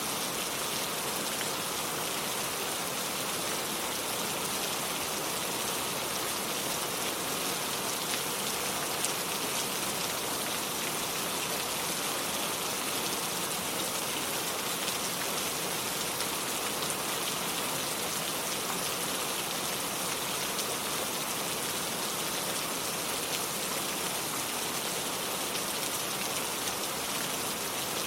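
Steady rain falling: an even hiss with the patter of drops, a few single drops standing out now and then.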